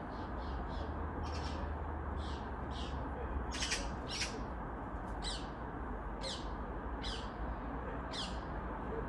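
A bird calling over and over: about a dozen short, high calls, several falling in pitch, loudest a little after the middle, over a steady low background hum.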